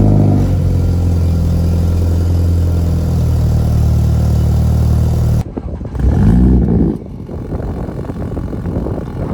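2017 BMW 330i's turbocharged 2.0-litre four-cylinder through a Valvetronic valved axle-back sport exhaust, idling high and steady just after starting up. After a cut about five seconds in, the engine is blipped once, rising and falling quickly, then runs at a quieter idle.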